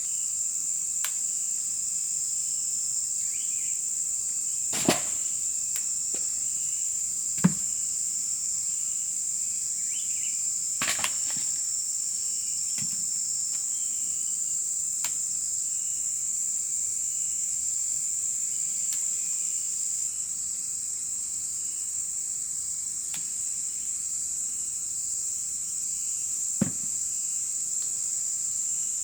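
Insects droning steadily at a high pitch, with a few sharp knocks scattered through, the loudest about seven and a half seconds in.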